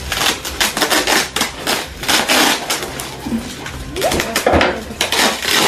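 Packaging being handled and torn at: a dense, irregular run of loud rustling and crackling.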